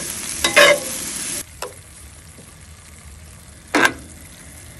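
Ground meat with onion and tomato sizzling in a cast-iron skillet, stirred with a utensil that scrapes the pan a couple of times. The sizzle drops off abruptly about a second and a half in and goes on more quietly, with one more scrape near the end.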